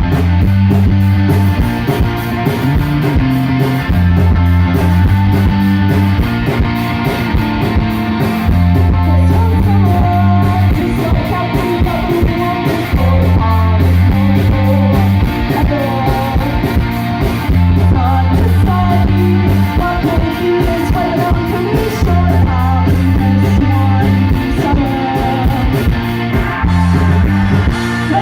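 Live indie-pop band playing an upbeat song through a PA: electric guitar, bass and drums. The bass changes note every second or two under a steady, busy beat, and a wavering melody line comes in about a third of the way through.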